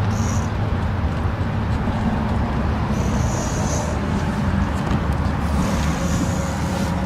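2015 Mazda 6 engine idling steadily, a continuous low rumble.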